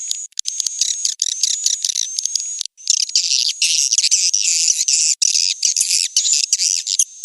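Swiftlet lure call recording: dense, rapid, high-pitched twittering chirps of edible-nest swiftlets, with a thin steady high tone running under them in the first couple of seconds and a brief break before the chatter resumes. This is the kind of calling sound played at swiftlet houses to draw the birds in.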